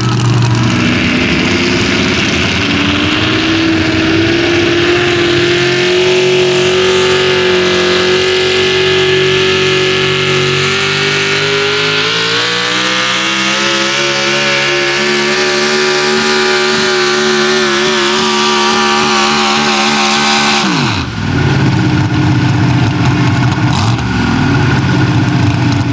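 A 6200 lb class 4x4 pulling truck's engine held at high revs down the track, its pitch climbing further about halfway through. About five seconds before the end the pitch drops sharply as the throttle comes off, and the engine settles to a lower, steady run.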